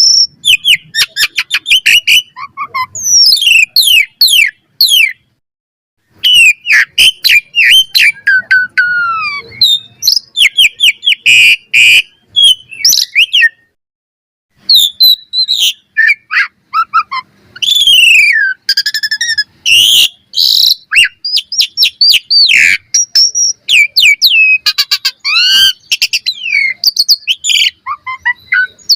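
Asian pied starling (jalak suren) singing: a loud, fast, varied stream of whistles, sweeping notes and rapid chirps, broken by two short pauses.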